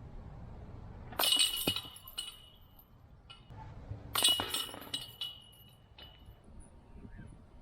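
Metal chains of a disc golf basket jingling and clanking twice, about three seconds apart, each time leaving a ringing metallic note that fades.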